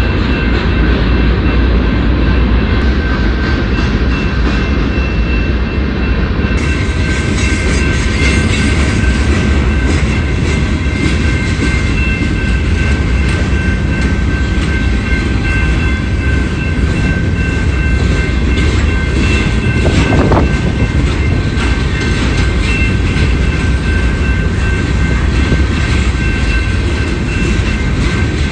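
Train cars rolling past, with a steady low rumble and wheels clicking over the rail joints. A thin steady high whine from the wheels runs through it.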